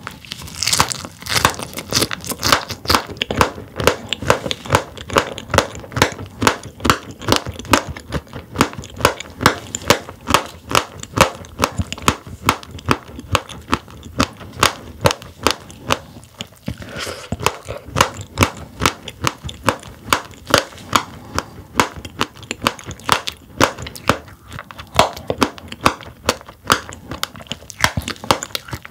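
Close-up chewing of sailfin sandfish roe: the firm eggs pop and crunch between the teeth in a dense run of crisp clicks, several a second, with a brief lull about halfway through.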